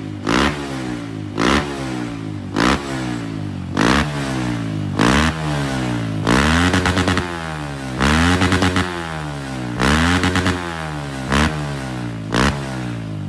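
Single-cylinder trail motorcycle engine with a Norifumi Rocket4 SS racing exhaust, revved in quick blips about once a second, each rising and falling back to idle. A few times it is held at high revs with a rapid stutter, as if bouncing off the rev limiter.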